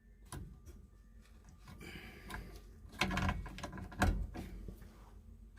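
Scattered handling knocks and rustling, with two louder knocks about three and four seconds in.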